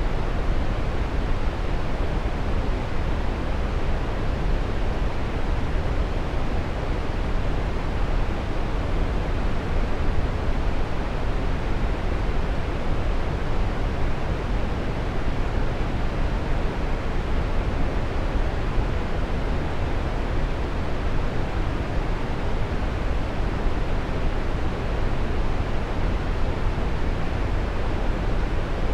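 Waterfall: water pouring and splashing in a steady, even rush, deep and full in the low end with little high hiss.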